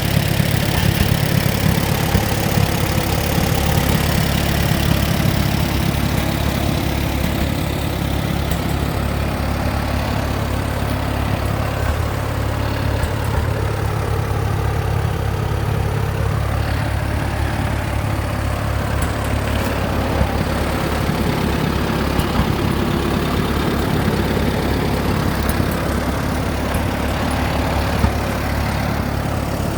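Allis-Chalmers WD45 tractor's four-cylinder engine running steadily, a little quieter from about six seconds in.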